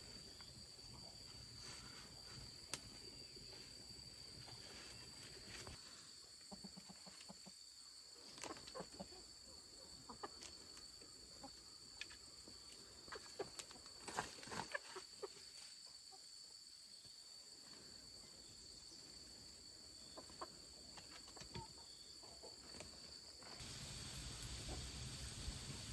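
Chickens clucking quietly in short scattered calls over a steady high insect drone. A hiss comes in near the end.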